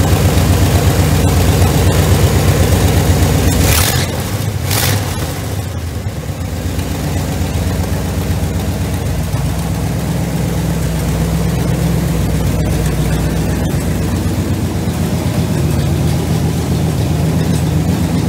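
Car engine running: louder for the first four seconds or so, then settling into a steady idle. Two brief hissing rushes come around four seconds in.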